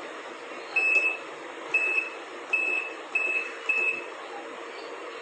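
Control panel of a Midea MWMTLO62M31 top-load washing machine beeping: five short, high beeps, irregularly spaced from about a second in, as its buttons are pressed to switch it on and choose a programme.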